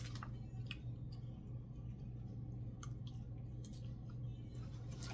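Faint, scattered eating clicks from mouth and utensils while eating noodles and chicken, over a steady low hum.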